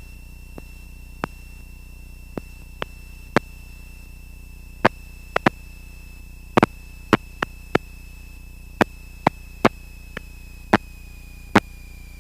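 Steady electrical hum and a faint high whistle on the cockpit intercom audio feed, broken by irregular sharp clicks, about twenty of them.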